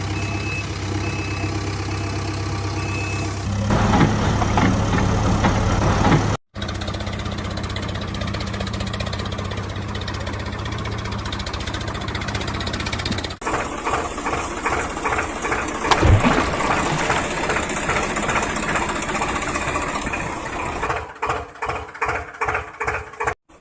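Vehicle engine sounds in spliced segments: a steady idling engine, rougher and louder from about three and a half seconds, cut off abruptly; then steady running; then near the end a pulsing, stuttering run of about three beats a second.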